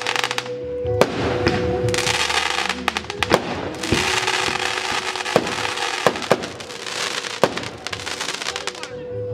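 Fireworks display: about half a dozen sharp bangs of shells bursting, two of them in quick succession, over long stretches of dense crackling from crackle effects.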